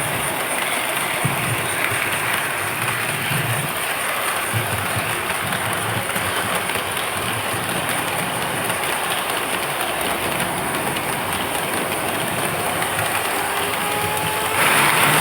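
HO-scale model train running on its track: a steady rolling rumble, with a faint rising whine near the end and a louder stretch in the last half-second.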